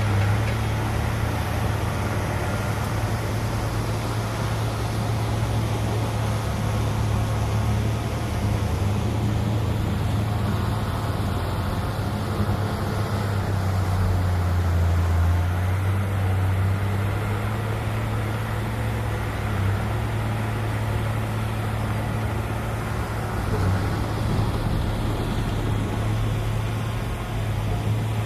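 Diesel engine of earthmoving machinery running steadily under load, a deep low hum that swells a little about halfway through.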